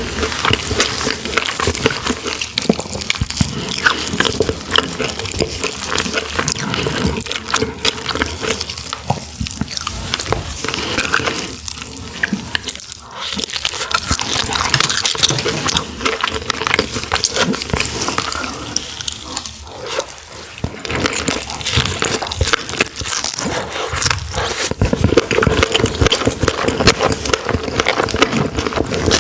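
Close-miked mukbang eating sounds: wet, continuous chewing and biting of sandfish, with smacking and clicking mouth noises and a faint steady hum underneath.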